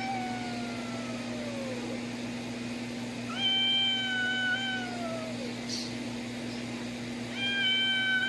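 A cat meowing in three long, drawn-out calls about two seconds each, the first sliding down in pitch.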